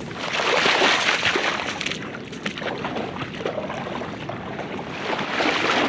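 Water sloshing and splashing, in two loud surges: one at the start lasting about two seconds, and another near the end.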